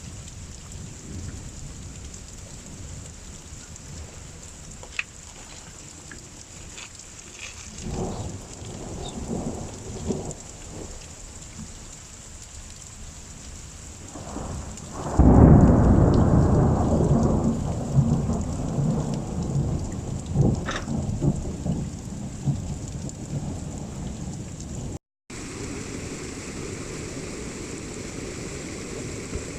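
Rain falling steadily during a thunderstorm, with fainter rolls of thunder about 8 to 10 seconds in, then a loud clap of thunder about halfway through that rumbles away over several seconds.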